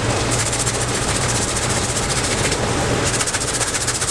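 Electric belt sander running with a steady low hum, its belt grinding against the wooden bowl with a harsh hiss. The hiss thins briefly twice as the piece is shifted on the belt.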